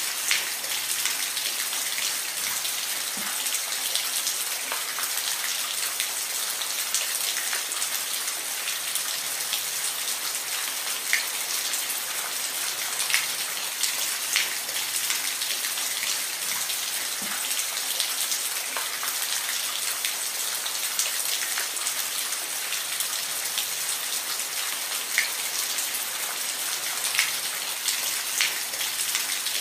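Steady rain falling, an even hiss with many individual drops pattering and ticking on a surface throughout.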